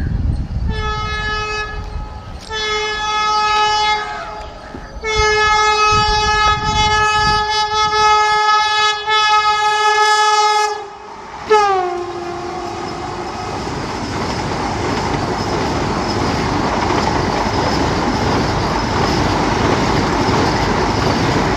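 Vande Bharat Express semi-high-speed trainset sounding its horn as it approaches: two short blasts, then one long blast of about six seconds, then a last blast that drops in pitch as the front passes. After that comes the steady noise of the coaches' wheels running past on the rails at speed.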